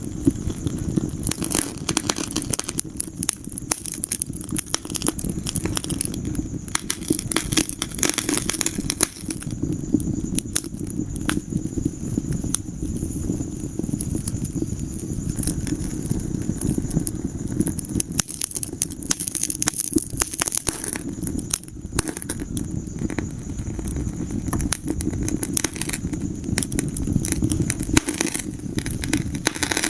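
Wood fire crackling in a fireplace: frequent irregular pops and snaps over a steady low rumble of the burning flames.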